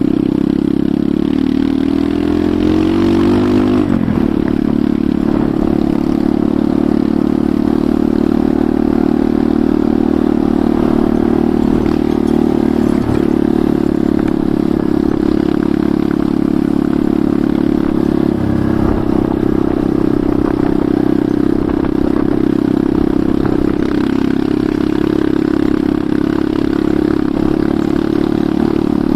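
Enduro motorcycle engine running under way. The revs climb over the first few seconds and drop sharply about four seconds in, as at a gear change, then hold fairly steady, with another shift in pitch near the end.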